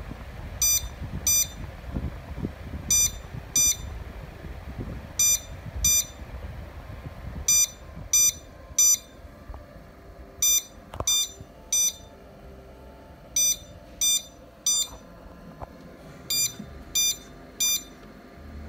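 Electronic warning buzzer beeping in short, equal beeps: three pairs, then four groups of three, each group about two seconds apart. Under the first half there is a low whirring rumble that dies away about halfway through.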